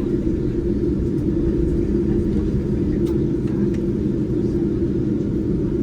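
Steady low rumble inside the cabin of a Boeing 787-9 airliner, from its engines and cabin air system while it is on the ground before takeoff, holding an even level with no build-up.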